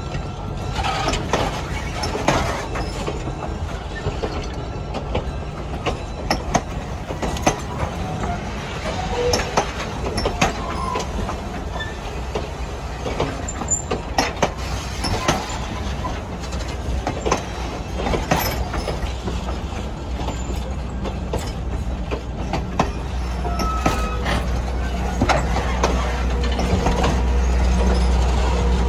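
Passenger coaches of the Conway Scenic Railroad rolling past close by. Their wheels rumble steadily and click and knock over the rail joints, with a few short squeals, and a low rumble grows louder near the end.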